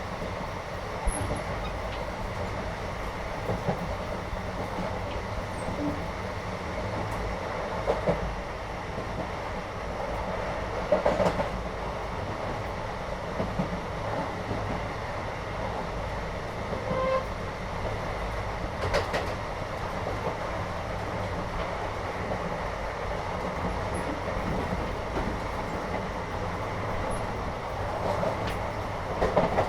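Inside a moving Indian passenger train: the steady rumble of the running carriage, with occasional sharp knocks and clanks from the wheels and couplings.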